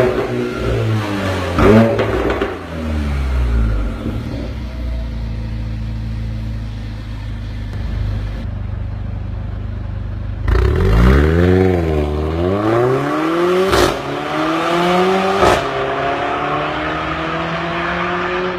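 Mercedes-Benz CLA45 AMG's turbocharged four-cylinder engine through an Armytrix valved exhaust. It starts with a few quick revs and then holds a steady low drone for several seconds. About ten seconds in, the revs swing sharply up and down twice, two sharp cracks follow, and then the engine note climbs steadily.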